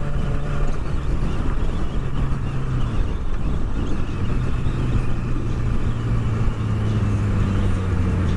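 Motorcycle engine running steadily under wind rush, its pitch dropping about three seconds in and then holding.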